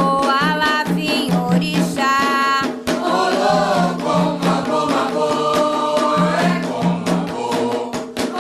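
Candomblé Ketu sacred song for Xangô: voices singing a chant over a steady, repeating drum and percussion rhythm.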